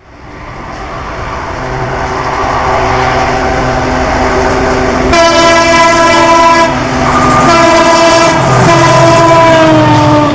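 Diesel locomotive horn sounding loudly over a train's running noise: the rail noise fades in at the start, and the multi-tone horn blasts from about five seconds in, breaks briefly, then sounds again with its pitch sagging slightly.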